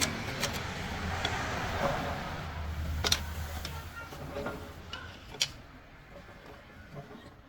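Scattered sharp metal clicks and knocks of tools and parts being handled during gearbox work, the loudest about three seconds in, over a low rumble that fades out after about four seconds.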